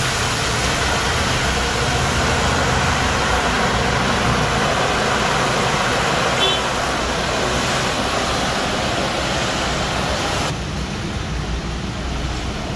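Loud, steady hissing sizzle of a watery ginger, garlic and green chilli paste hitting hot ghee and fried onions in a large cooking pot, the ghee frothing up. About ten seconds in, the high hiss drops away abruptly, leaving a duller, lower noise.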